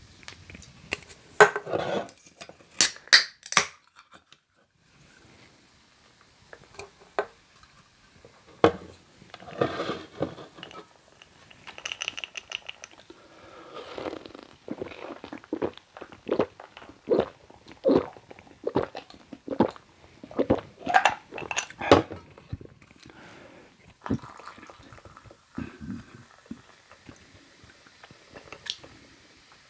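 A person drinking close to the microphone: a few sharp clicks near the start, then a steady run of gulps and swallows about every half second.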